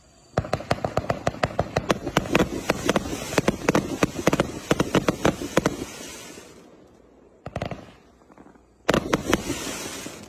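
Multi-shot fireworks cake firing a rapid string of shots, about five a second, for some five seconds, then a fading crackling hiss. A short burst of shots follows, then a second, louder volley near the end.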